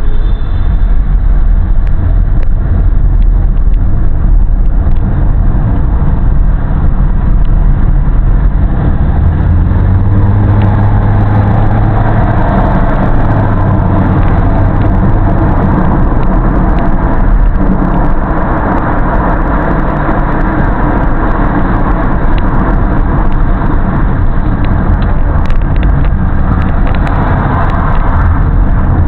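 A car being driven: steady, loud engine and road noise, heaviest low down.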